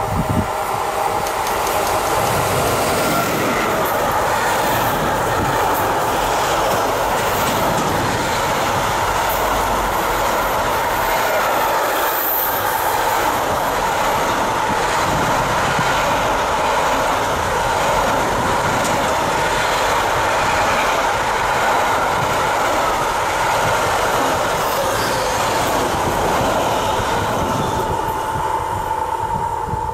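Intermodal freight train rolling past at speed, its wagons' wheels clattering on the rails in a loud, steady rush that dies away near the end.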